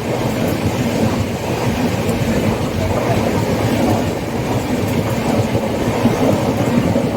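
Indian Railways train running along the track: a steady, even noise of wheels on rails.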